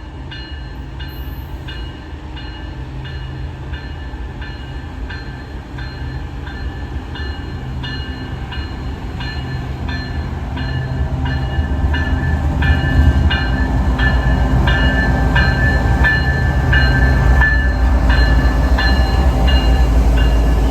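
Train approaching, its low rumble building steadily louder, with a metallic ring repeating a little under twice a second.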